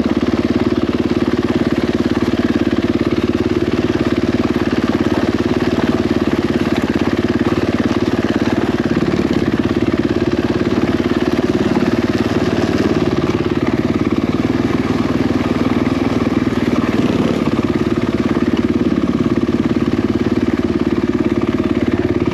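Dirt bike engine running steadily at low revs, with little change in pitch throughout.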